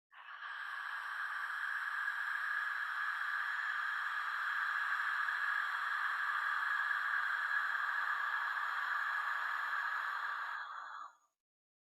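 A steady hissing noise, loudest in the middle-high range with no clear pitch. It starts suddenly and cuts off about eleven seconds in.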